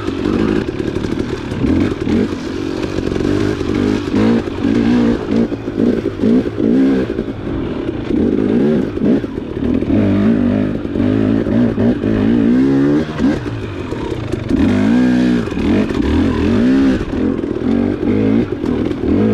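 Dirt bike engine revving up and down as it is ridden over a trail, its pitch rising and falling constantly, with some rattling.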